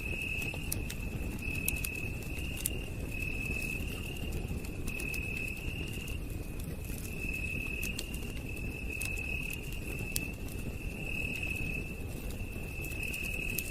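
Campfire crackling, with scattered sharp pops over a steady low rumble of burning, and a night insect trilling in repeated high chirps about once a second.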